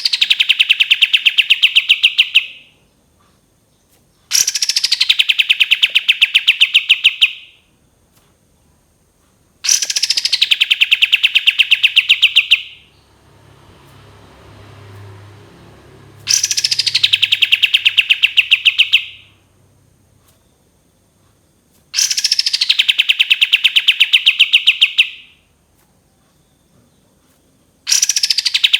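Kapas tembak bird singing its long 'tembakan' call: a falling note that drops into a fast, rattling trill lasting about three seconds, repeated five times at even spacing of about six seconds. A faint low rumble sits in one of the gaps near the middle.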